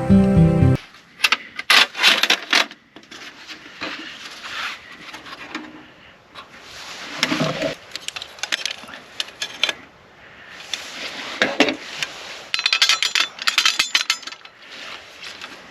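Camping gear being handled: rustling in bursts with sharp clicks and light metallic clinks, busiest near the start and again near the end. A burst of music cuts off just under a second in.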